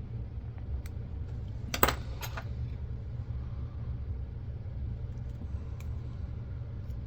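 Small parts clinking and clattering as a camcorder is taken apart, with a sharp double clatter about two seconds in and a few faint clicks, over a steady low hum.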